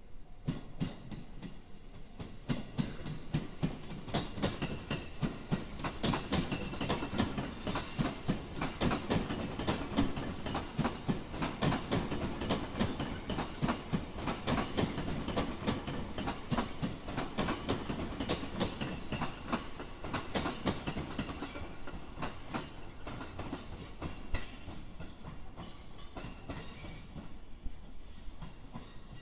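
JR East 211-series electric train running past, wheels clicking in quick succession over rail joints and points above a steady low rumble.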